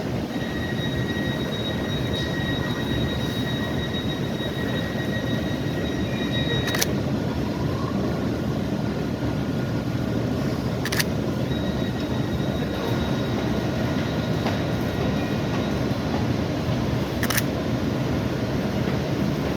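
A train running at a station platform with a steady rumble and a steady high-pitched whine that drops out partway through and returns. Three sharp clicks stand out, spread through the sound.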